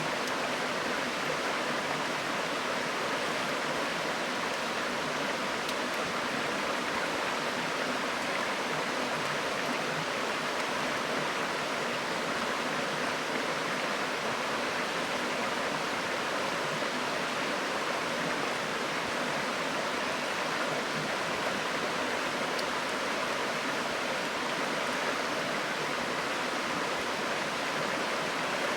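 River water flowing steadily over stones, a constant even rush.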